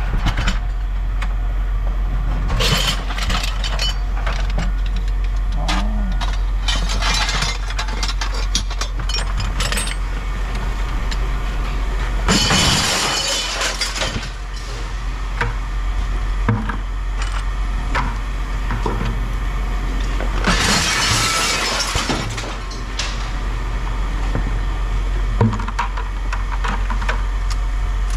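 Pieces of scrap aluminum being tossed onto a pile, clattering and clinking in scattered knocks, with two longer rattling crashes, one about halfway through and one about three-quarters through. A steady low hum runs underneath.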